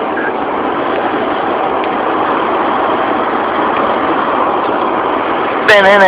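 Steady road and engine noise inside the cab of a truck moving at highway speed. Near the end a voice starts singing.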